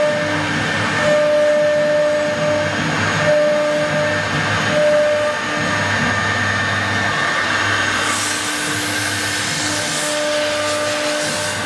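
Two-spindle CNC wood router running and cutting: a steady machine whine over a hiss of cutting noise, with one tone that breaks off and returns every second or two.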